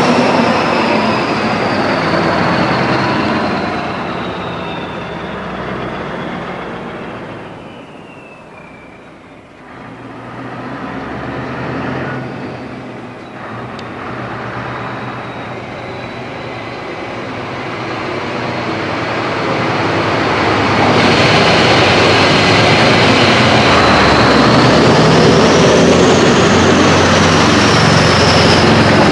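Heavy trucks driving past one after another, the diesel engines' noise fading away towards a lull about nine seconds in. Then another truck approaches and grows loud from about twenty seconds on. A high whine falls in pitch as the first one passes, and another rises and falls near the end.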